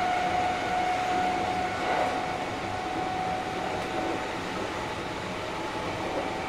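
Kintetsu 1230 series electric train with Hitachi GTO inverter control, heard from on board while running: a steady rumble of wheels on track with a constant-pitch whine that fades away about four seconds in.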